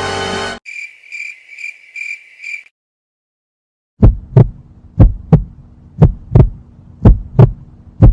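Heartbeat sound effect: four deep double thumps (lub-dub), about one pair a second. Before it comes a run of five short high-pitched chirps about half a second apart.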